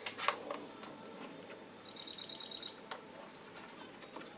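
A small bird's short, rapid high trill about two seconds in, over a few faint clicks and taps.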